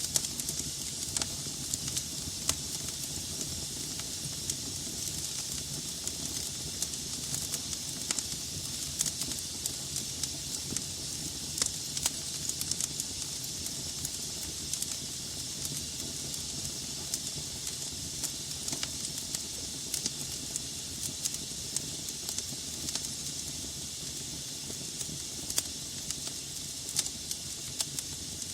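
Wood fire burning in a fireplace: a steady hiss of flames with frequent irregular sharp crackles and pops from the burning logs.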